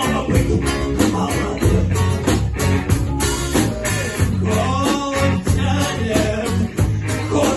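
Rock band music: electric guitar, bass and drums at a steady driving beat, with a voice singing over them.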